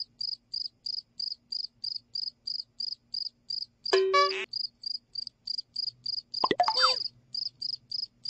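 A cricket chirping in an even rhythm, about three high chirps a second. Two short, louder pitched sounds break in: a steady one about four seconds in and one with falling pitch about two and a half seconds later.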